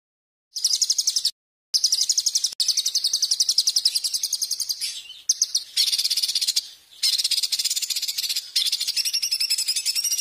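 Songbird singing rapid, high-pitched buzzing trills in long runs broken by short pauses.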